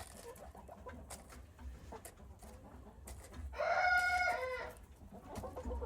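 A chicken gives one loud drawn-out call, about a second long and falling in pitch at its end, about three and a half seconds in, with soft clucking around it.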